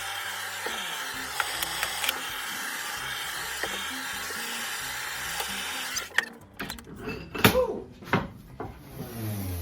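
Steady hiss of a torch flame burning a hickory axe handle, which cuts off about six seconds in. Several sharp knocks and clatters of wood and tools follow.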